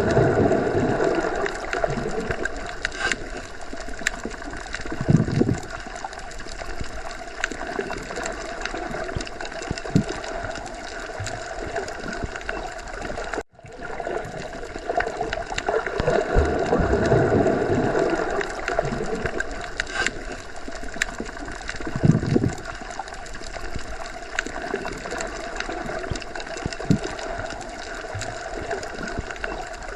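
Underwater ocean ambience: continuous churning, gurgling water with slow swells and occasional low thuds. It is a loop that repeats about every 17 seconds, with a brief dropout about 13 seconds in.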